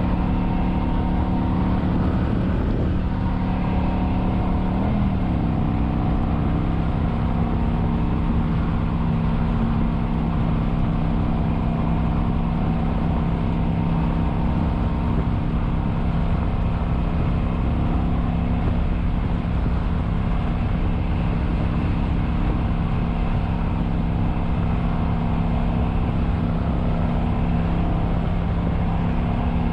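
Kawasaki Vulcan 900's V-twin engine running at a steady cruise under a rush of wind and road noise. The engine note drops a step about five seconds in, then holds steady.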